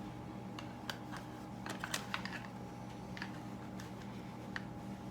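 Scattered light clicks and taps of hand tools and small metal parts being handled during carburetor removal, over a steady low hum.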